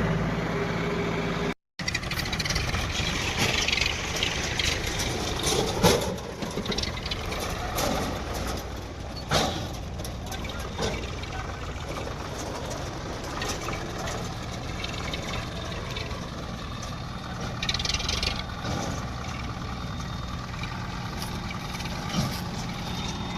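Heavy diesel machinery engine running steadily, with a few short knocks and clanks; the sound cuts out completely for a moment about one and a half seconds in.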